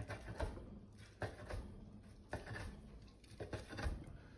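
Kitchen knife cutting through grilled chicken breast on a cutting board: a handful of irregular knocks of the blade against the board.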